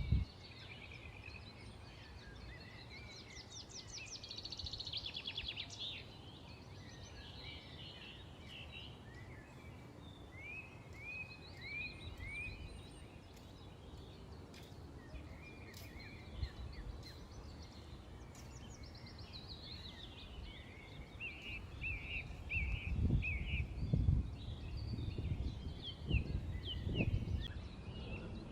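Several small songbirds chirping and trilling, with a fast trill and runs of short repeated chirps, over a steady low background hum. Near the end, several bursts of low rumble are louder than the birds.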